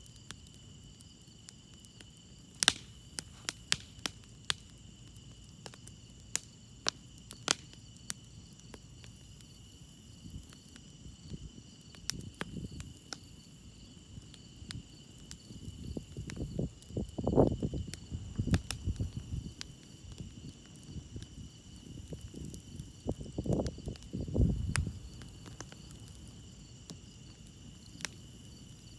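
Campfire crackling with sharp wood pops, more frequent in the first few seconds, over steady high chirring of crickets. Twice, around the middle and near the end, a low rushing surge rises and falls.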